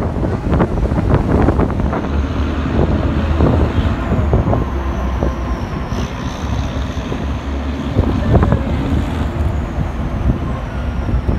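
Durango & Silverton narrow-gauge passenger train rolling along: a steady low rumble with irregular knocks and clatter from the running gear, and wind on the microphone. From about four seconds in, a faint high squeal dips and rises.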